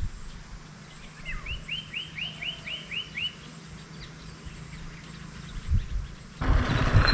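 A forest bird calling a quick series of about eight rising notes, over faint wind rumble. Near the end a louder rush of noise sets in.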